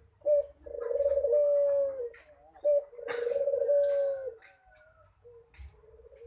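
Puter (Barbary dove) cooing: two loud coos, each a short note followed by a long drawn-out one, then fainter cooing near the end.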